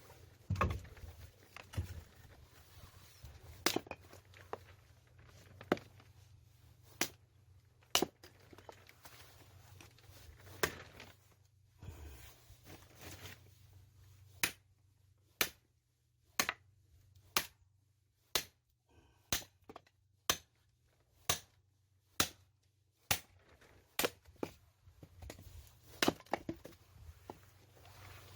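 Firewood being chopped by hand: sharp, separate blows on wood, spaced irregularly at first, then settling into a steady rhythm of about one blow a second from about halfway through.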